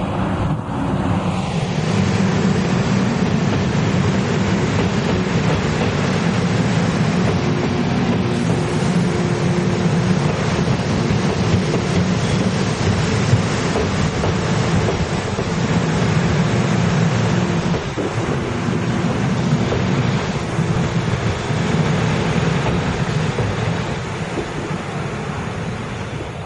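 Taiwan Railways electric multiple-unit express train running past close by, a steady loud rumble of wheels on the rails with a faint steady hum over it. There is one sharp knock about halfway through.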